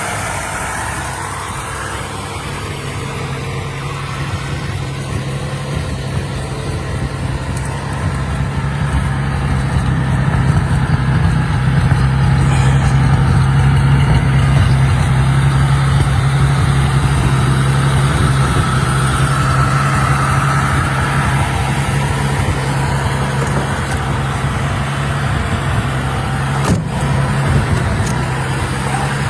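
A 1949 Ford's 8BA flathead V8 running steadily, its low hum growing a little louder over the first ten seconds or so and then holding even.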